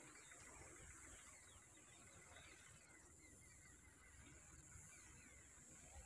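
Faint birdsong: scattered short, falling chirps from small birds, over a steady high hiss.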